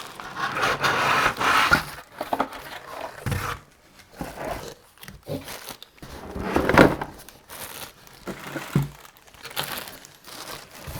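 Packaging crinkling and rustling as tool accessories are unwrapped by hand, in irregular bursts, the loudest about two-thirds of the way through.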